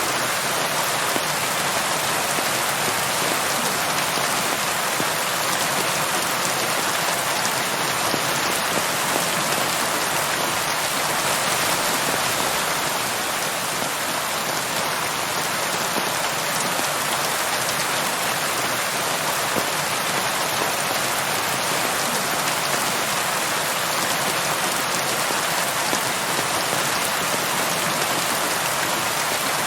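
Steady rainfall: an even hiss of many raindrops hitting a surface, with no thunder or other sounds standing out.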